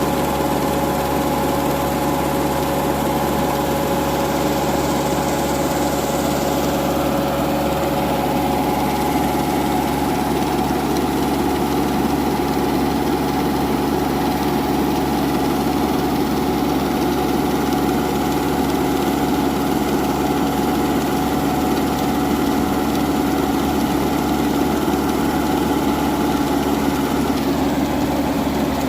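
Tractor engine running steadily at a constant speed, a continuous even drone.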